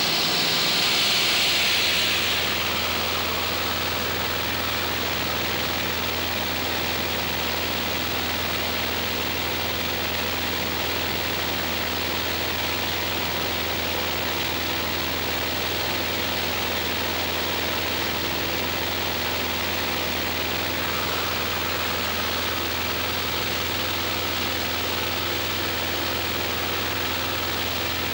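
Steady drone of a Cessna's piston engine and propeller heard inside the cockpit, with a louder hiss for the first two seconds or so.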